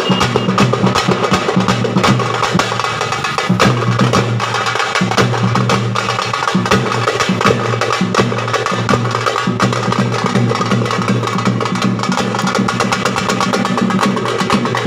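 Drum set played in a fast, dense, continuous rhythm, the Trichy 'mirattal adi' beat.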